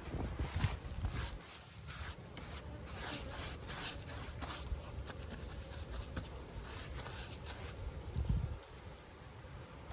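Paintbrush strokes on weathered hive wood, a run of short, irregular scratchy brushing sounds.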